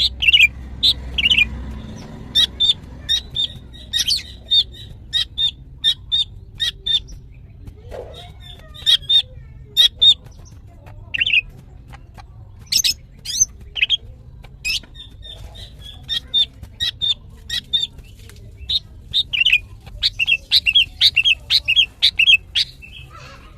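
Female greater green leafbird (cucak ijo) calling in runs of short, sharp chirps broken by brief pauses, with a fast chattering run near the end.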